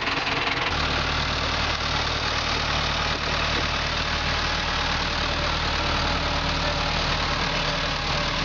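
An engine running steadily at idle under a loud, even hiss. Its low hum shifts to a steadier, stronger note less than a second in.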